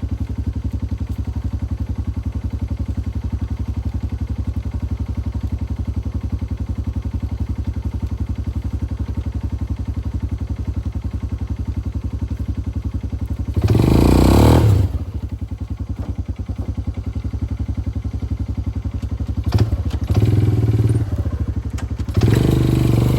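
Four-wheeler (ATV) engine idling steadily, revving up briefly about fourteen seconds in and twice more near the end as it tugs on a log.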